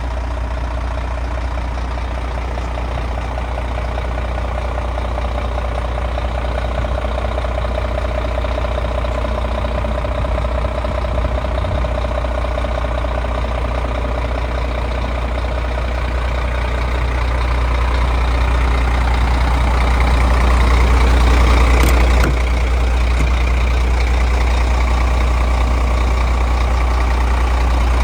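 Scania P380 dump truck's diesel engine idling steadily with a deep hum. It grows gradually louder until about twenty seconds in, then drops back abruptly a couple of seconds later and settles.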